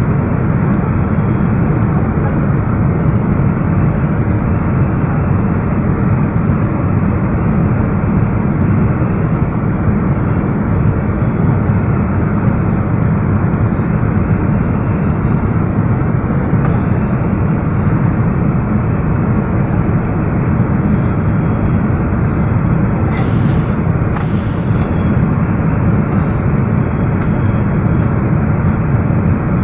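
Steady engine and airflow noise of a Boeing 777-300ER airliner heard inside the passenger cabin, even and unchanging.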